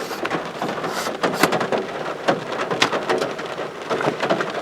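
Rain falling on a car, heard from inside, with many separate drops striking irregularly over a steady hiss.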